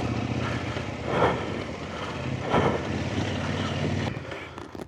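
Off-road motorcycle engine idling, a steady low note under rough wind noise on the microphone, cutting off about four seconds in.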